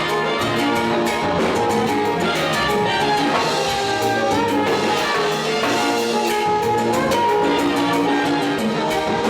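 Live salsa orchestra playing salsa romántica with a horn section over a steady percussion beat, heard as room sound.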